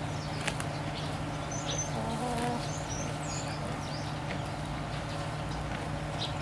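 Small birds chirping a few times, high and short, and a short low call about two seconds in, over a steady low hum.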